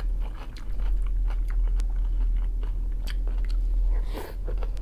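Close-up chewing and wet mouth clicks of a man eating soft buckwheat salad from a wooden spoon. A brief louder noise comes about four seconds in as the next spoonful goes into his mouth. A steady low hum runs underneath.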